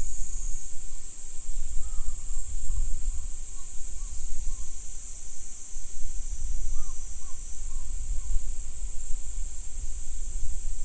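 A steady high-pitched chorus of insects, with a distant bird giving two short series of repeated call notes, about two seconds in and again about seven seconds in. A low rumble runs underneath.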